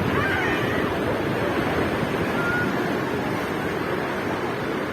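Sea surf washing against the shore in a steady, continuous rush.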